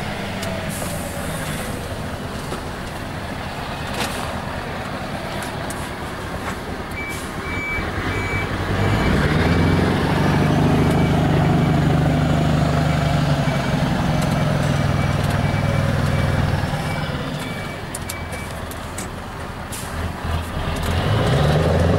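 Scania R truck engine with an open straight-through exhaust pulling under load. It grows louder and deeper about eight seconds in, eases off near the end and picks up again. A faint high beeping repeats through the middle.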